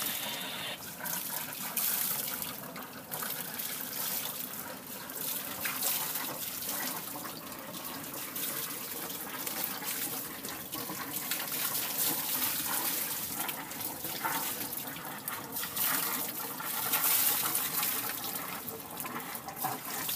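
Water sloshing and washing against a sailboat's hull: a continuous noisy wash that swells and eases irregularly.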